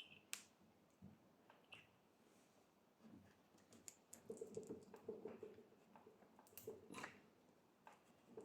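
Near silence with a few faint scattered clicks and light knocks, the sharpest just after the start and about seven seconds in.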